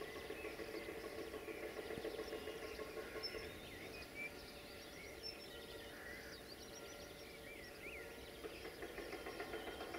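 Several birds chirping and calling, over a low steady drone that fades a few seconds in and comes back near the end.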